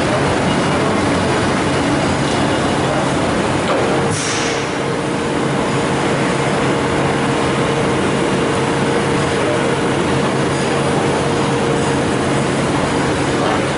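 Colchester Magnum LB800 heavy-duty gap-bed centre lathe running, a steady loud mechanical drone from the spindle and headstock gearing. About four seconds in there is a brief hiss, and a new steady hum joins and holds.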